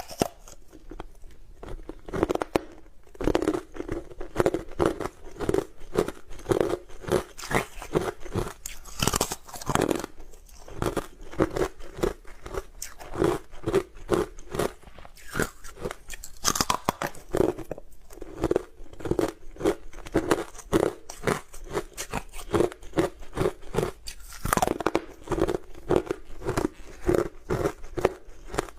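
Close-up crunching and chewing of hard frozen matcha ice: a few big cracking bites, each followed by rapid steady chewing crunches, several a second.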